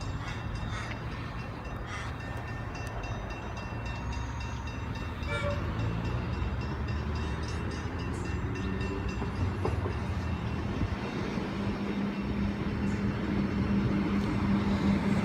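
Comeng electric suburban train pulling into the platform: a broad rail rumble growing steadily louder as it nears, with a steady electrical hum coming in about halfway through and strengthening toward the end.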